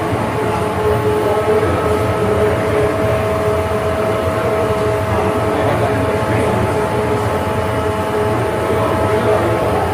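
Restored Brunat steam engine running: a steady mechanical clatter with a constant whine on top.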